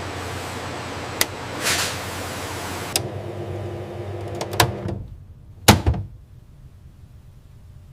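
Factory machinery running with a steady hum, punctuated by sharp mechanical clicks and a short whoosh, then a loud metallic clank about six seconds in, after which the machine noise drops away.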